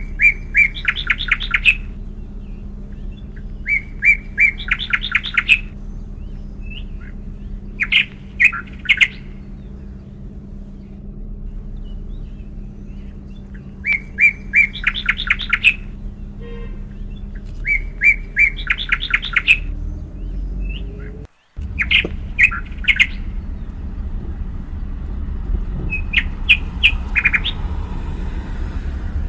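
A songbird singing the same short phrase again and again, about seven times: a few clear high notes followed by a quick trill, each phrase lasting about two seconds, over a steady low rumble. The sound cuts out for a moment about 21 seconds in.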